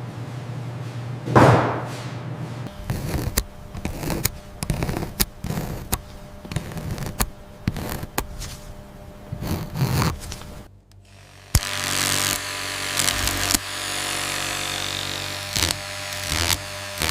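Hand work on a metal object: a run of short sharp knocks and scrapes, with a loud swish about a second in and a steadier hiss in the last few seconds, over quiet background music.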